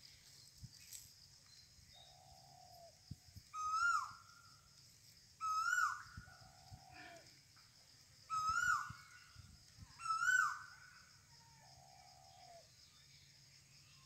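Bird calls: a loud, short call that rises and then drops, four times a couple of seconds apart, alternating with a lower, longer call three times.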